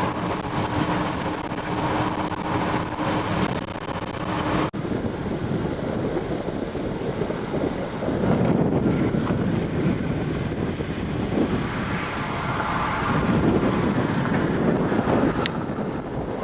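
Strong thunderstorm outflow wind blowing across the microphone in surging gusts. A steady low hum under the first few seconds stops abruptly about five seconds in.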